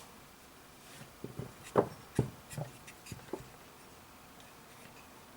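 A cluster of light taps, clicks and scrapes from small parts or tools being handled on a workbench, coming in a run of about a second and a half before it goes quiet again.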